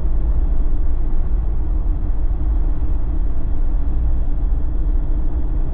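Steady road and engine rumble inside a moving Jeep's cabin, tyres running on a winter road.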